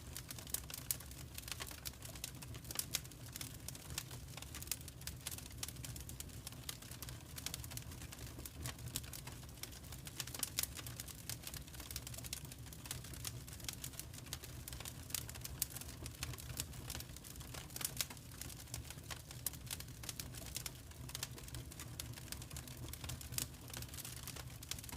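Fireplace wood fire crackling: a constant scatter of irregular small pops and snaps over a steady low rumble of the flames.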